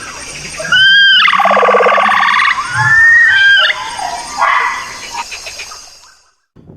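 Capybara calling: several short, high squeaks and whistles, with a longer buzzy call that dips in pitch and rises again about a second and a half in.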